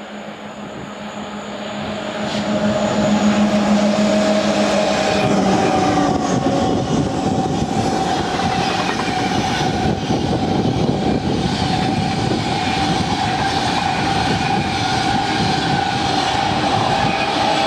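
Eurostar high-speed trainset passing close at speed. The noise of wheels on the rails swells to full loudness two to three seconds in as the front arrives, then holds as the carriages run by, with a steady whine over the rumble and clatter.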